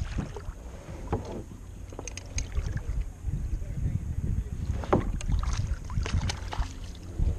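Wind rumbling on the microphone, with scattered clicks and knocks. The loudest knock comes about five seconds in.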